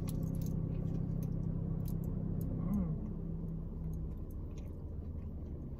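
Close mouth sounds of someone biting and chewing a foil-wrapped shawarma wrap, with scattered small clicks, over the steady low hum of a car's cabin. A short hum of the voice comes about halfway through.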